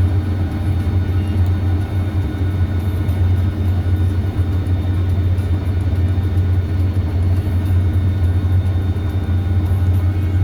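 Claas Lexion 8900 TT combine harvester running steadily while harvesting wheat, a constant low drone with a fixed hum above it.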